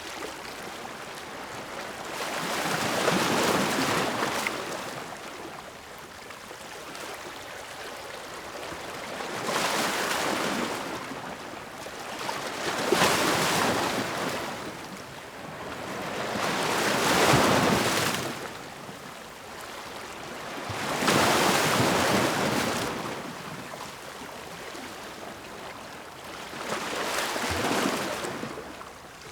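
Ocean waves breaking and washing in. Six surges of surf come a few seconds apart, each swelling and fading over two to three seconds, with a steady hiss of water between them.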